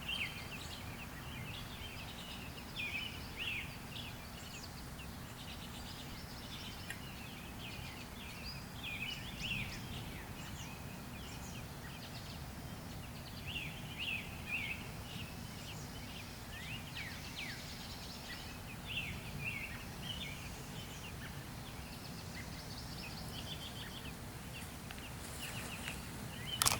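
Baby robin chirping faintly: quick, high chirps in scattered runs, over a steady low hum.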